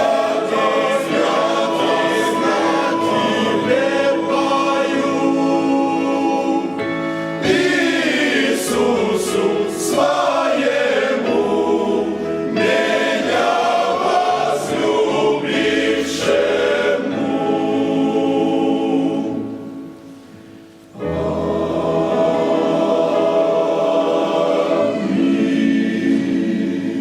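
A choir singing a Christian hymn with musical accompaniment. There is a short drop in level around 20 seconds in, then the singing starts again.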